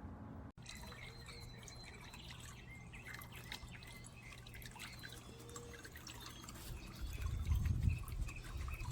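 Small birds chirping in short, scattered calls, with a low rumble coming in near the end.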